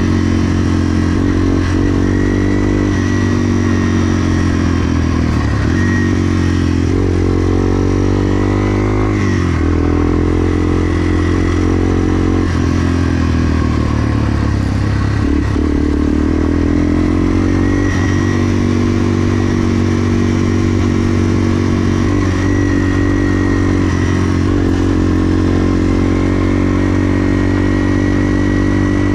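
Yamaha TW200's single-cylinder four-stroke engine running hard under way, its revs dropping and climbing again several times as the throttle is eased and reopened.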